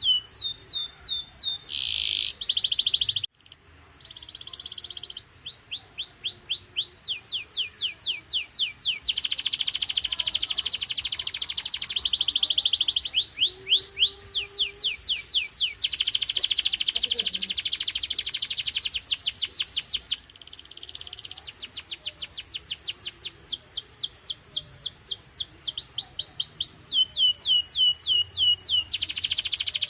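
Domestic canary singing a continuous song: rows of steeply falling whistled notes repeated several times a second, alternating with long, very fast dense trills. The song breaks off briefly a little over three seconds in.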